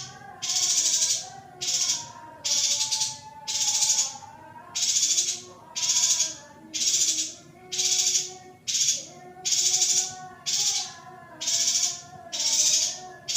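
Female yuhina giving a long series of harsh, hissing calls, about one a second, each lasting under a second. These are the calls used to bring a male yuhina into breeding condition. Fainter wavering tones run underneath.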